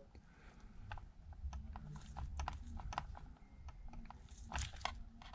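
Faint, scattered small clicks and taps of precision tools and flex-cable connectors being worked and pressed into place inside an opened iPad, over a low hum.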